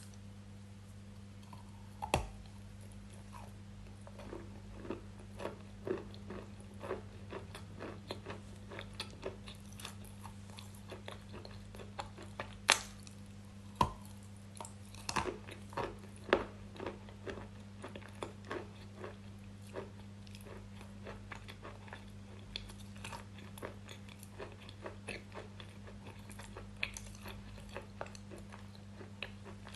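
Close-up crunchy biting and chewing: irregular sharp crunches, a few much louder bites among many softer chews, over a steady low hum.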